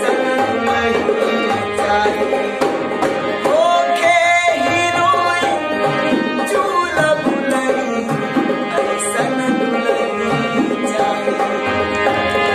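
Live Indian song music: tabla playing a steady rhythm under a sustained melody, with sliding pitches a few seconds in.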